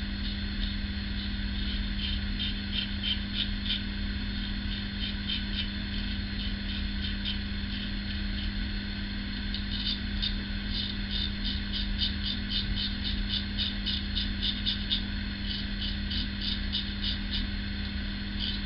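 Single-edge safety razor scraping through lathered stubble in quick short strokes, a loud, crisp rasp repeated in clusters, busiest in the second half.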